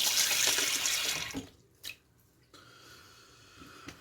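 Sink faucet running, then shut off about a second and a half in, followed by a single small click.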